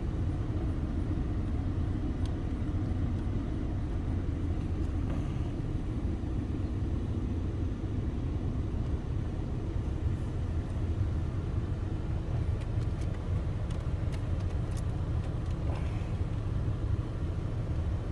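2014 Ford Escape's 1.6 L EcoBoost turbocharged four-cylinder idling steadily, a low even rumble, run after a coolant change to burp air out of the cooling system.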